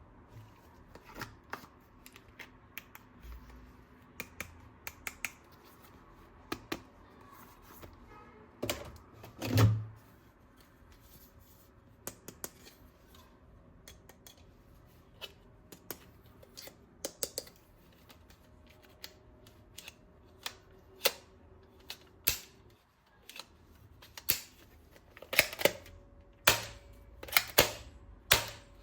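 Plastic toy guns and parts being handled: irregular sharp clicks and knocks of hard plastic, with one heavier knock about ten seconds in and the clicks coming faster and louder near the end.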